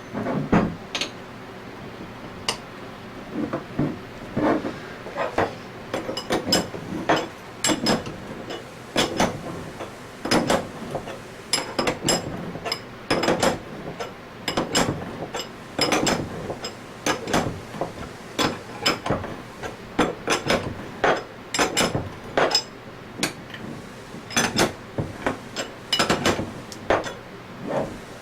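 Irregular sharp metallic taps, as of hammering on metal: a needle bearing being tapped into its bore in an Anest Iwata scroll compressor part during reassembly.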